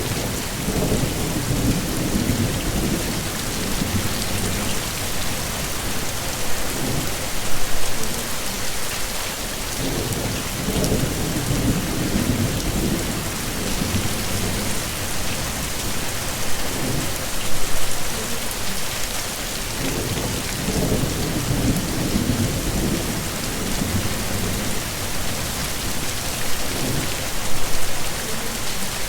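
Heavy rain falling in a steady hiss, with low rolling rumbles of thunder that swell and fade several times.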